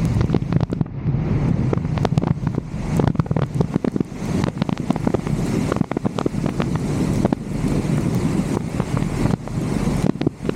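Wind rushing over the microphone of a roof-mounted camera on a moving vehicle, over a steady low road rumble, with frequent sharp ticks and pops scattered through it.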